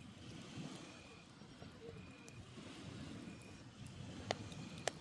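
Firewood burning in a campfire, with two sharp crackles near the end, over a low rumble of sea waves and grass insects chirping about once a second.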